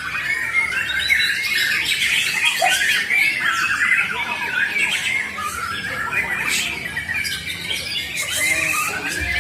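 Murai batu (white-rumped shama, Borneo type) singing without a break: a fast, dense flow of short, quickly changing whistled and harsh notes.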